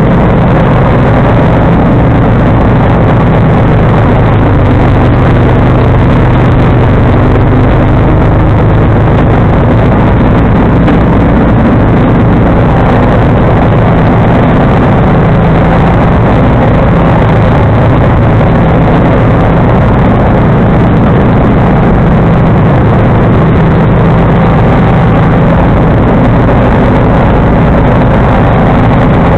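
John Deere 445 garden tractor's liquid-cooled V-twin engine running steadily with the 47-inch snowblower.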